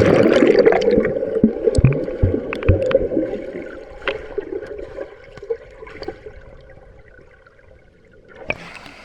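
A sudden splash into a river pool, then muffled bubbling and gurgling water that fades over several seconds; near the end the sound turns bright again.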